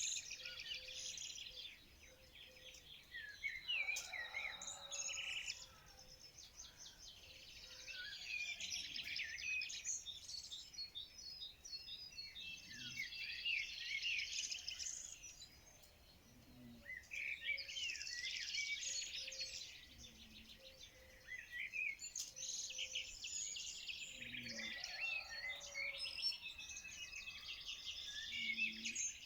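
Several small songbirds singing and chirping together in overlapping bouts of rapid high trills and twitters, with short lulls every few seconds.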